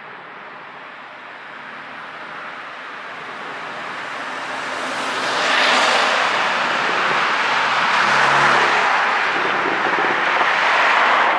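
Porsche 718 Cayman's turbocharged 2.0-litre flat-four engine and exhaust running with an ECU tune. The sound grows steadily louder for about five seconds, then stays loud until it cuts off suddenly.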